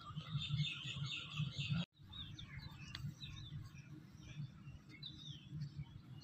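Birds chirping faintly, with short high calls that glide downward, over a low background rumble; the sound drops out briefly about two seconds in.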